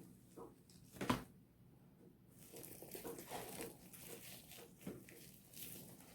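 Slime being mixed and worked by hand, a dense wet crackling and squishing, after a single sharp knock about a second in.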